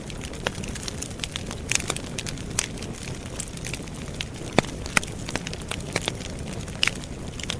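Wood campfire burning: a steady low rush of flames with irregular sharp crackles and pops from the logs, one louder pop about halfway through.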